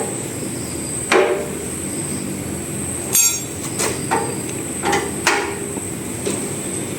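A handful of sharp metal knocks, like hammer taps on metal, about a second in and then several more between about four and five and a half seconds, with a short rattle around three seconds, over a steady mechanical noise.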